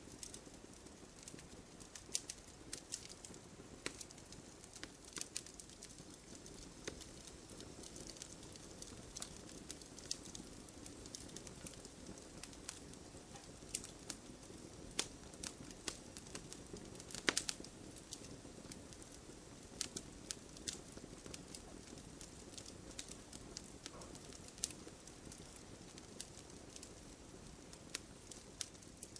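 Wood fire in a fireplace crackling: irregular sharp pops and snaps, one of the louder ones a little past halfway, over a soft, steady low rustle of the flames.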